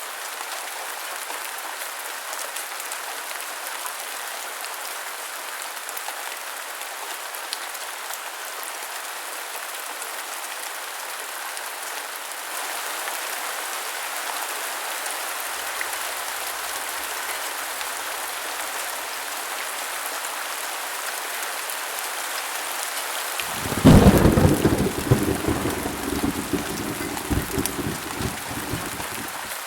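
Steady rain falling, growing a little louder about halfway through. Near the end a loud thunderclap breaks in and rolls on with crackling rumbles for several seconds before stopping abruptly.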